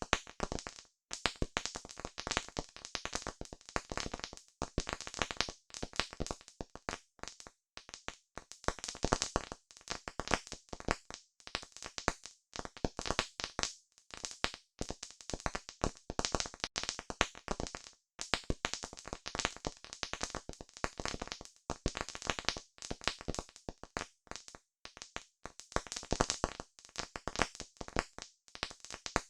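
Campfire crackling: burning wood gives off a dense, irregular stream of pops and snaps, broken by a few short lulls.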